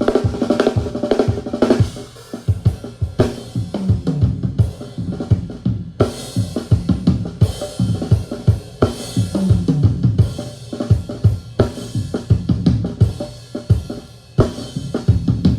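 Multitrack recording of a drum kit played back: kick, snare, hi-hat and cymbals in a steady groove, with tom fills that step down in pitch from high tom to floor tom.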